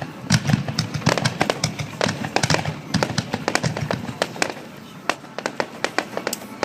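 Aerial fireworks bursting in rapid succession during a finale barrage: many sharp bangs and crackles, several per second, overlapping without a break.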